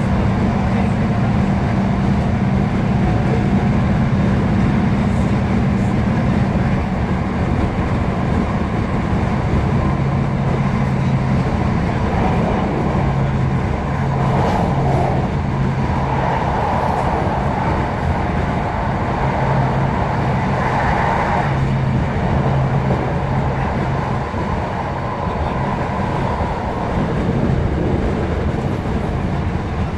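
Class 156 Super Sprinter diesel multiple unit on the move: the steady drone of its Cummins diesel engine over continuous wheel-on-rail rumble. The engine note drops lower about a third of the way through.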